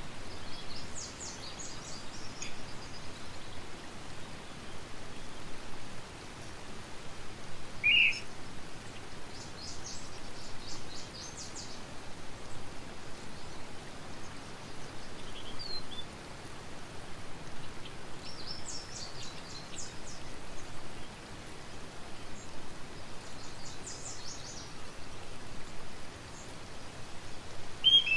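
Outdoor ambience: a steady hiss with small birds chirping in short bursts of rapid high notes every several seconds, and two brief louder single call notes, one about eight seconds in and one at the very end.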